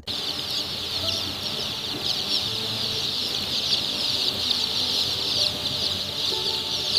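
A large flock of young chicks peeping together in a dense, continuous chorus of high chirps.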